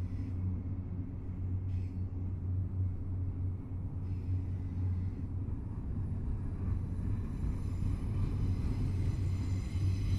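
Double-stack intermodal freight train rolling past, a steady low rumble of the cars going by. A faint high-pitched whine grows stronger in the second half.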